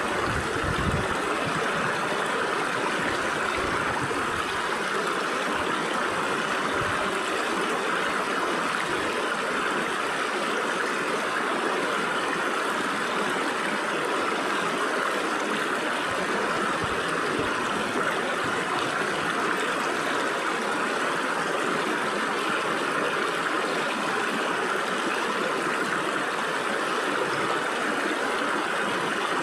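A shallow stream of water flowing and splashing through gaps between rocks, a steady rushing and gurgling without let-up.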